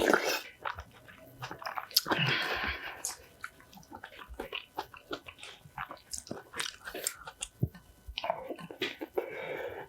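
Close-miked eating: chewing and crunchy biting with wet mouth clicks, and a few louder, longer noisy stretches.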